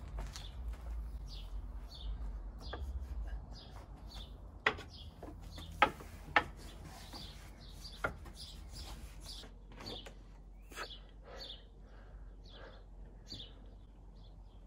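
Small birds chirping over and over, with four sharp knocks about a third to halfway in from the wooden climbing frame as a person hangs and swings on its bars.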